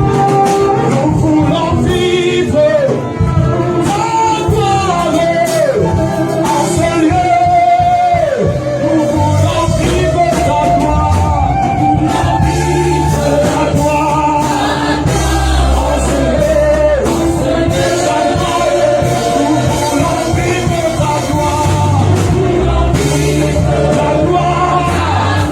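Live gospel worship music: voices singing a melody with sliding notes over a band with steady bass and drums.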